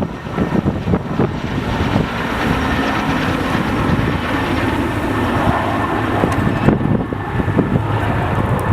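Erickson S-64 Air-Crane helicopter running loud at take-off: a dense, steady rumble of rotor and turbine noise with a faint high whine, and wind buffeting the microphone in the first couple of seconds.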